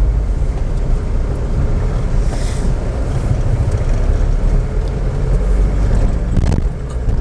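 Road and engine noise from a moving car, heard as a steady low rumble, with a brief knock near the end.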